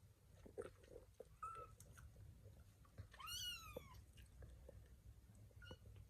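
A kitten mews once, a high cry that rises and then falls, about three seconds in. A few short faint squeaks come before and after it.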